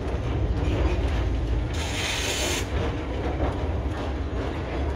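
Narrow gauge passenger train rolling slowly, its wheels rumbling with scattered light clicks on the rails. A short burst of hissing comes about two seconds in and lasts under a second.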